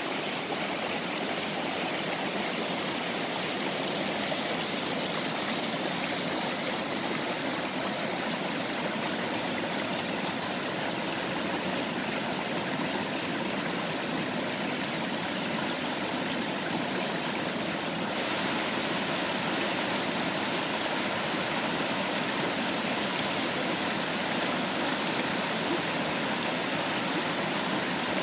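Stream water rushing and splashing over a small waterfall in a steady, unbroken flow, getting slightly louder about two-thirds of the way through.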